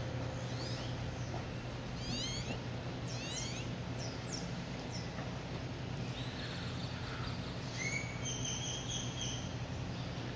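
Small birds chirping and whistling, with many quick sweeping calls and a few held notes about eight seconds in, over a steady low hum.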